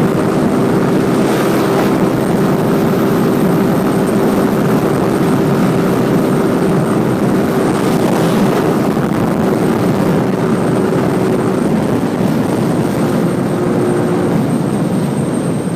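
Motorcycle ridden at a steady pace: the engine runs steadily under a dense rushing noise. Its steady note fades out about twelve to fourteen seconds in.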